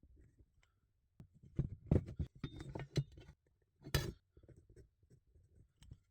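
Irregular knocks, clinks and scrapes of hard objects being handled by hand, with the loudest knocks about two and four seconds in and no machine running.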